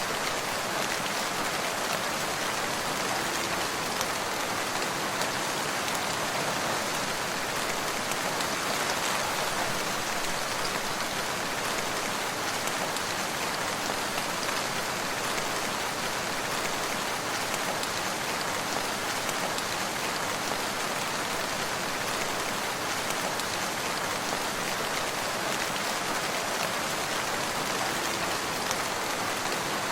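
Steady rain falling and pattering on surfaces, an even hiss of many fine drops with no thunder.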